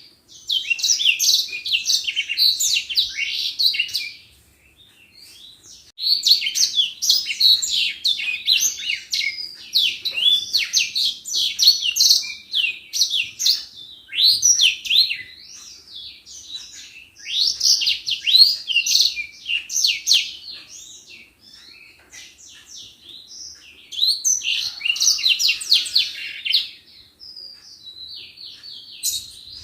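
Edel sanger (grey singing finch) singing in long, fast, high-pitched twittering phrases of a few seconds each, broken by short pauses, with softer twitters between them and near the end.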